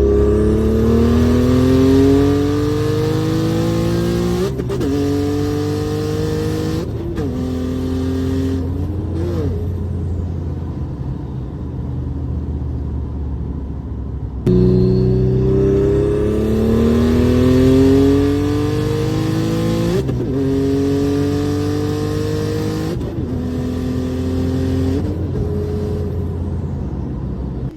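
Single-turbo Infiniti Q50 with a manual gearbox accelerating hard through the gears: the engine note climbs, drops at each gear change, and climbs again. The same pull through three shifts is heard twice, the second starting about halfway through.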